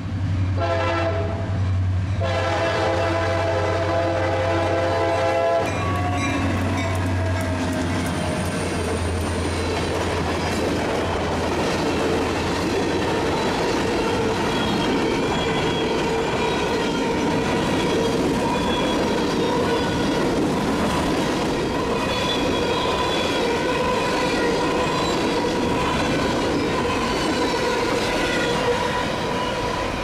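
CSX EMD GP38-2 diesel locomotive passing close by, sounding its horn in blasts, the last one held until about five seconds in, with its engine running underneath. The engine sound then fades as the freight cars, covered hoppers and tank cars, roll past with steady wheel and rail noise.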